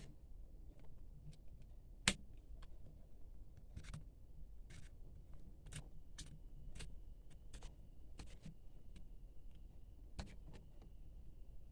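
Scattered light clicks and ticks from handling packaging and plastic parts during an unboxing, with one much sharper click about two seconds in.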